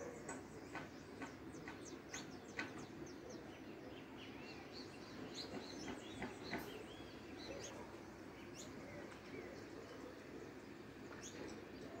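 Short, high bird chirps scattered irregularly, several in the first few seconds and a cluster in the middle, over a steady low background noise.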